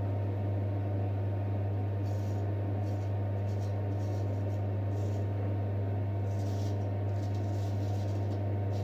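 A steady low hum runs throughout, with a few faint soft rustles now and then.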